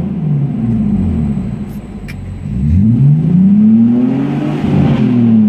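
BMW Z4 E85 3.0i's straight-six, with its rear silencer (backbox) deleted, being revved while parked, heard from inside the cabin. The engine falls back from a rev to near idle, then about two and a half seconds in is revved hard again, holds high and begins to drop near the end.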